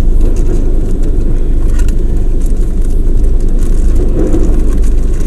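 Steady low rumble of a car cabin, with a few faint clicks and rustles over it.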